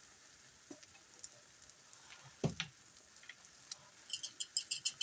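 A pepper grinder being twisted over the pan, about five short clicks a second, starting near the end after a couple of soft knocks.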